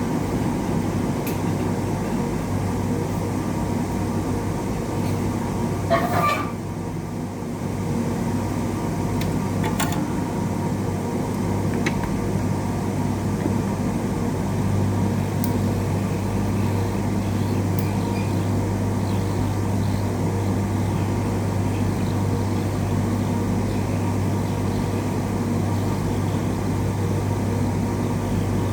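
Hot-air rework station blowing steadily, a constant motor hum with an electrical buzz and airflow hiss, used to heat an IC on a circuit board. A short clatter comes about six seconds in and a sharp click at about ten seconds.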